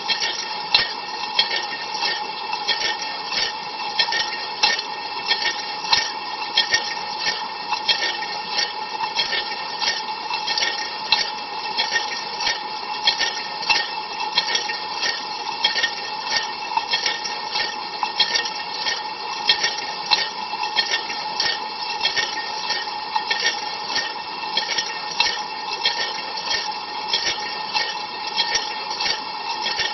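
Ariston LV 46 dishwasher running a cold-water rinse, heard from inside the tub: water spraying and splashing against the racks and walls, with a steady hum under it and constant sharp spatters several times a second.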